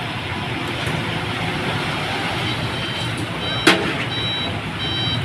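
Hino Dutro dump truck's diesel engine running steadily. From about three seconds in, a reversing alarm beeps about once a second. A single sharp knock comes just after the beeping starts.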